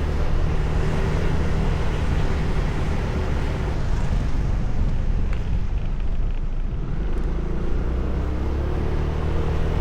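Motorbike engine running while riding, over a steady low rumble. The engine note fades back in the middle and comes up again near the end.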